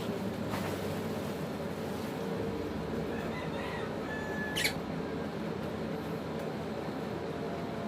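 African lovebirds giving a few faint chirps over a steady background hum, with one short, sharp squeak a little past halfway.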